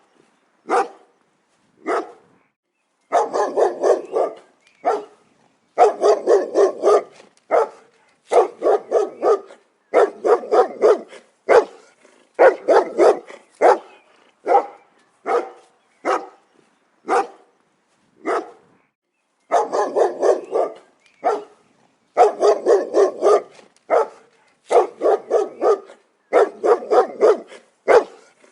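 Dog barking repeatedly: single barks and quick runs of several barks in a row, with short silent pauses between them.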